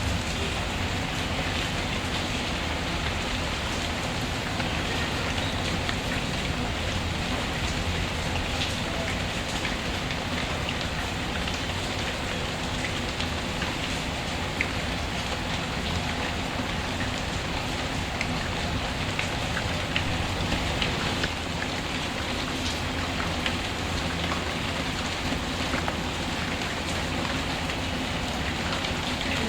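Steady rain falling on a surface, an even hiss with scattered sharp pops and crackles from a wood fire in a fireplace.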